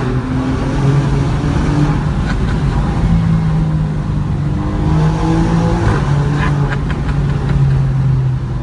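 Car engine pulling hard, heard from inside the cabin, its note rising and dropping in steps through the gears.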